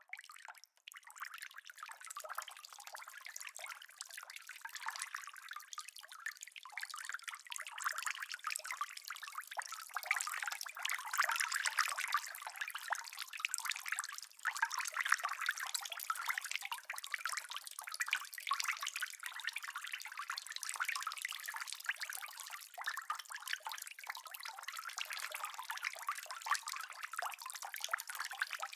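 Steady rain falling, a dense hiss of many close individual drops, with no thunder heard. It comes in right at the start and holds at an even level.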